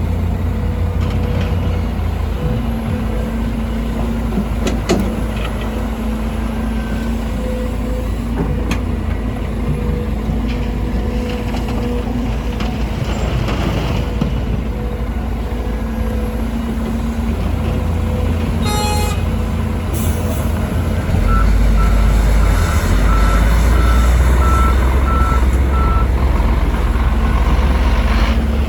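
Heavy diesel engines of a Volvo EC300E excavator and a dump truck running steadily during soil loading, with a sharp short sound about two-thirds of the way in. Near the end the engine rumble grows louder and a reversing beeper sounds in an even series of high beeps for about five seconds.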